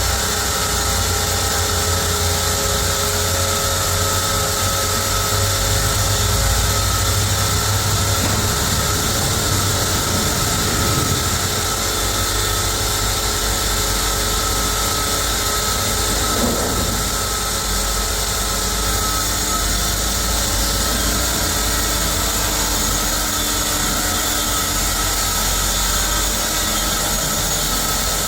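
Sawmill saw and machinery running continuously, a loud mechanical noise with a steady high whine over a low hum.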